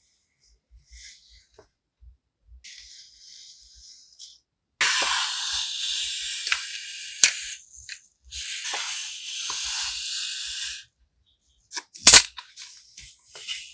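Packaging being handled during a stationery unboxing: light handling at first, then two long spells of rustling and crinkling, and one sharp snap about twelve seconds in.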